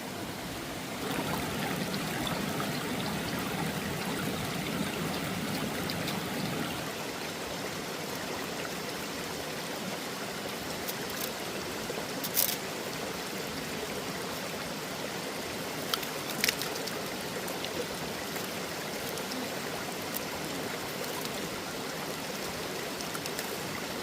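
Stream water running steadily, a little louder for the first few seconds, with a few short sharp knocks in the middle.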